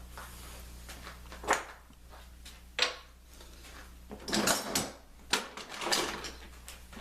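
Clamps being handled and set on a freshly glued veneer strip wrapped around a wooden table ring: a series of sharp clacks and knocks of metal and wood, with a busier rattling stretch a little past halfway, over a steady low hum.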